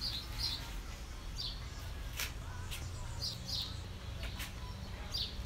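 Birds chirping: scattered short, high chirps, about eight of them, over a steady low background rumble, with a few sharp clicks.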